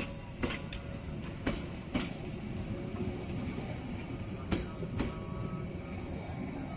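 A train passing on the rails: a steady rumble with wheels clicking over rail joints in pairs about half a second apart, three pairs in all.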